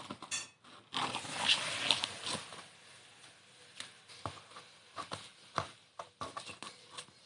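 Irregular clicks and knocks, with rustling and scraping about one to two seconds in.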